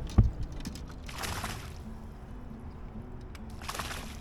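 A sharp thump, then two brief splashes as a hooked smallmouth bass thrashes at the surface while being brought into a landing net.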